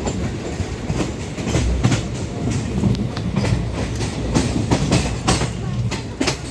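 Train running along the track with a steady low rumble and the repeated clatter of wheels over rail joints.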